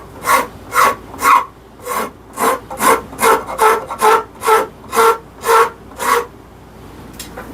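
Wood rasp worked in long strokes, about two a second, on a black locust hammer handle held in a vise; each stroke rings with a pitched, squealing tone from the handle vibrating, a sound that changes if the handle is clamped closer in. The strokes stop about six seconds in.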